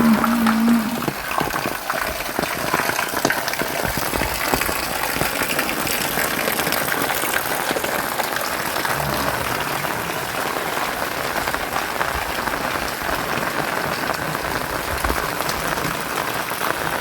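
Heavy rain falling steadily, with dense drops pattering on surfaces. A short, low, held call sounds in the first second.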